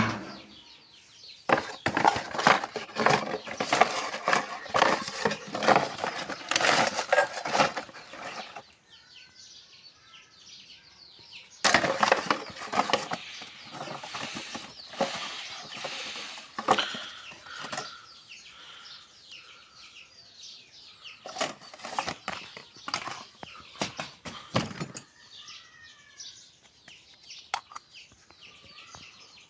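Rapid clicking and scraping, like hands and tools working on a small hard object, in three bursts of several seconds each. In the pauses between them, faint bird calls can be heard.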